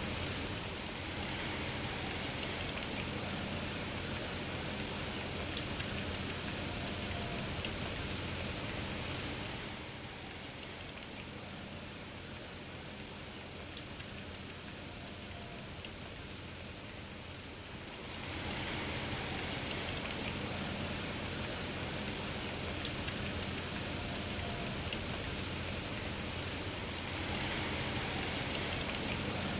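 Steady rain falling, with three sharp drop clicks standing out from it. The rain eases for several seconds midway, then picks up again.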